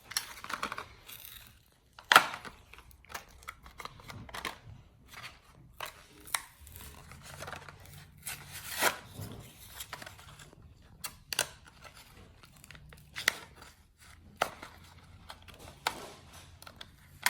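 Plastic-and-cardboard toy car blister package being worked open: irregular sharp clicks, crackling and tearing, with the loudest snap about two seconds in.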